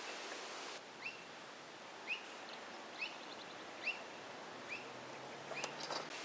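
A bird repeating a short upward-sliding call about once a second, six times, over a steady rushing background noise. A few quick clicking notes come near the end.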